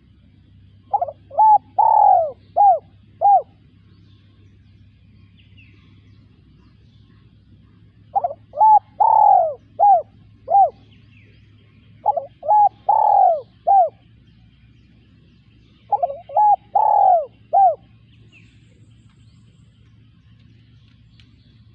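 Spotted dove cooing: four song phrases a few seconds apart, each a quick run of about five short, bending coo notes.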